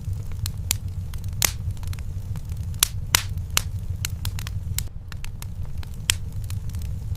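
Wood fire crackling in a fireplace: irregular sharp pops and snaps, a handful clearly louder, over a steady low rumble of the flames.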